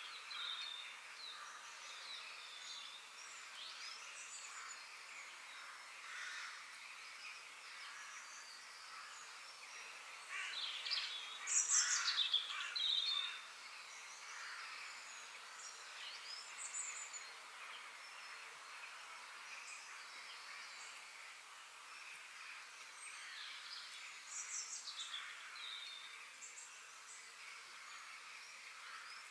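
Forest birds chirping and singing over one another, with short calls scattered throughout and a louder flurry of calls about eleven to thirteen seconds in.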